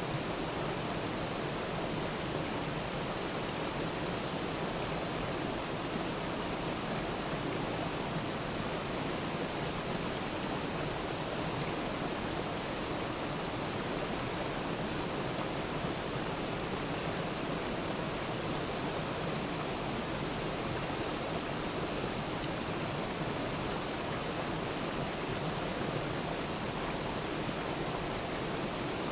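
Waterfall: water falling in a steady, unbroken rush with no distinct splashes or other sounds.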